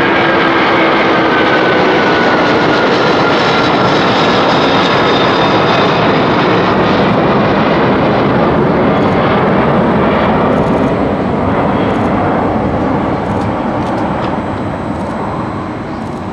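Boeing 747-400F's four jet engines at takeoff thrust: a loud, steady roar with a whine that falls in pitch over the first few seconds, then fading gradually toward the end.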